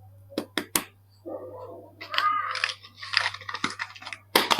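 Soap packaging being handled and opened: a series of sharp clicks and crackles, with a short pitched squeak about two seconds in and a quick run of clicks near the end.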